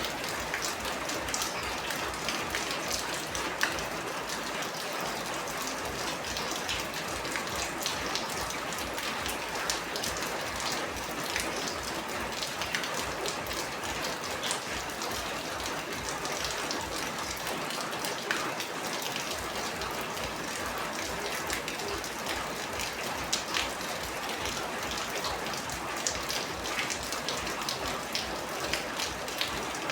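Steady rain falling: an even hiss with many separate drop impacts ticking through it.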